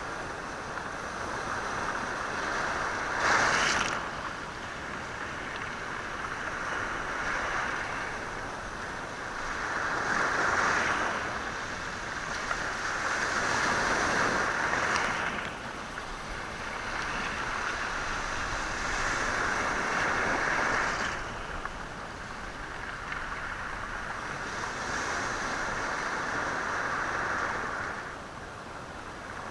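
Sea waves washing onto a rocky, stony shore, the water rushing in and draining back through the stones in slow swells every few seconds. A brief, sharper splash comes about three seconds in.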